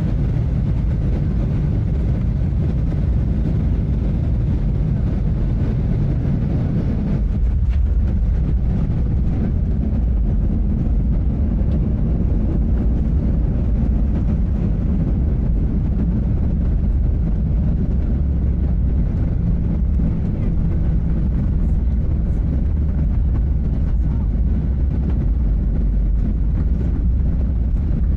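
Cabin noise inside a Boeing 737-800 airliner: the steady rumble of the engines and the air flowing past. The low rumble deepens about seven seconds in.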